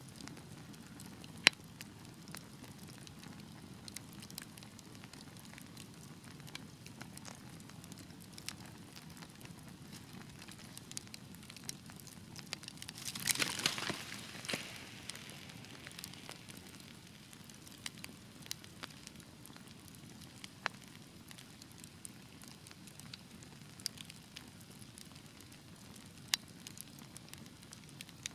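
Fire burning in a fireplace: a low steady rumble with scattered sharp crackles and pops, the loudest pop about a second and a half in, and a brief burst of dense crackling and hissing about halfway through.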